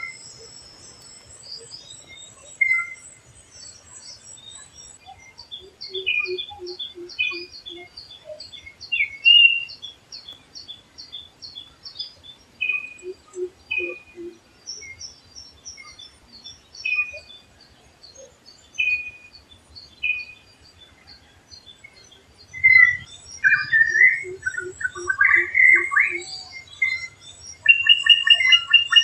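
Forest birds calling, with a drongo giving varied whistled and chattering notes over steady repeated high chirps and short runs of low pulsed notes. About three-quarters of the way through comes a louder burst of tumbling, varied notes, followed near the end by a fast trill.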